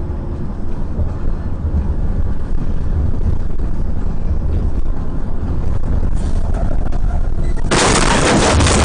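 Low, steady road and engine rumble of a moving car picked up by a dashcam microphone, with a sudden loud noise covering all pitches setting in about eight seconds in.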